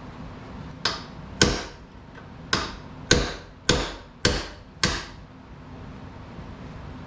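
Seven hammer blows over about four seconds, starting about a second in, each a sharp strike with a short ring: knocking a rusted, penetrating-oil-soaked part loose on a 1969 Honda Z50 mini bike.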